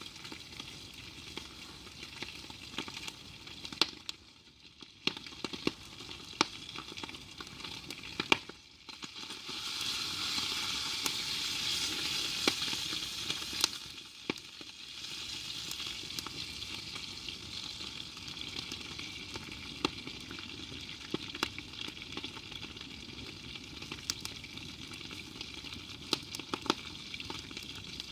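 Food frying in a pan over a campfire, a steady sizzle with scattered sharp crackles and clicks. The sizzle briefly drops away twice and grows louder for a few seconds in the middle.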